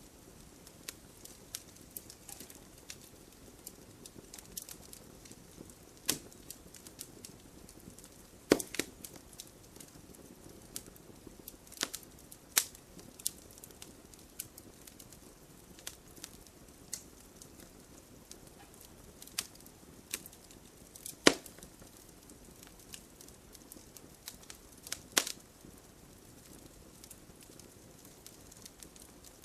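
Wood fire in a fireplace crackling, with irregular small ticks and pops over a low hiss of burning. A few sharp, louder snaps stand out now and then, the loudest a little past the middle.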